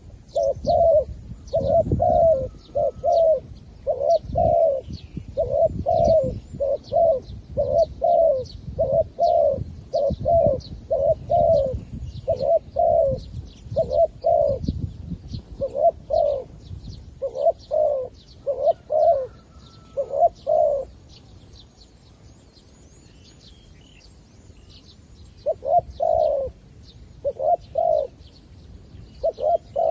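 Decoy zebra dove calling, a rapid staccato run of short cooing notes in clusters that stops for a few seconds past the two-thirds mark and then starts again. Faint chirps of small birds in the background.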